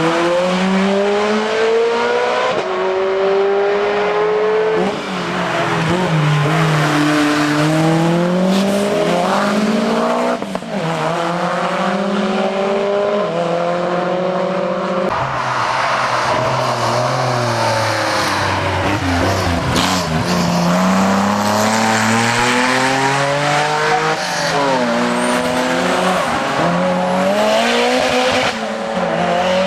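Hillclimb race car engine revved hard, its pitch climbing and falling again and again as it shifts through the gears and lifts off for bends.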